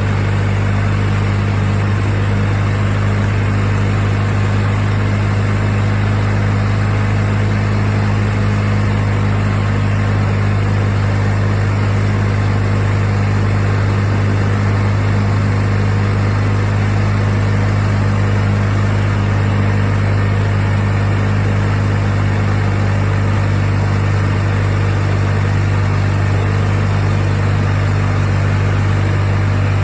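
20 hp Kohler Magnum twin-cylinder engine of a Craftsman lawn tractor running at a steady speed, with an even low hum.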